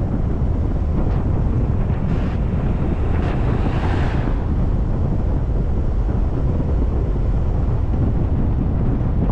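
Steady low rumble of a car driving, road and engine noise heard from the moving vehicle, with a brief louder hiss swelling and fading about four seconds in.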